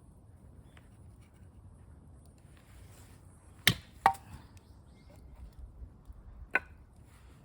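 Three sharp knocks: two close together about halfway through, a third about three seconds later.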